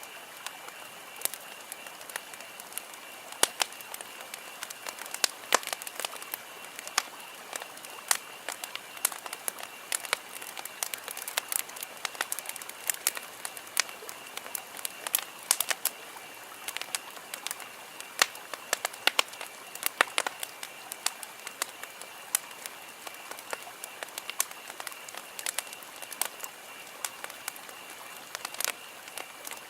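Wood campfire crackling: irregular sharp pops and snaps, some closely spaced, over a soft steady hiss, with a faint steady high-pitched drone underneath.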